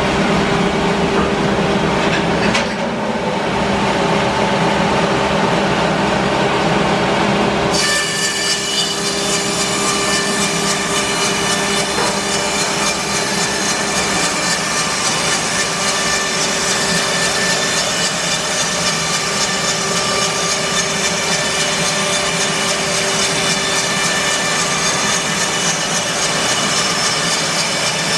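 Band sawmill cutting English larch: the blade and mill motor run steadily. About eight seconds in the sound changes abruptly to a higher, brighter cutting tone that then holds steady.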